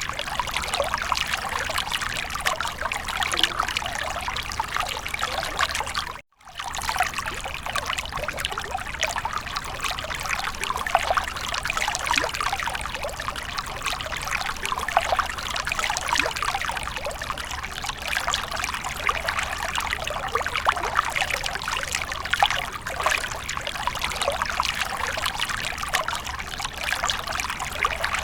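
Water fountain trickling and splashing steadily, with a momentary dropout to silence about six seconds in.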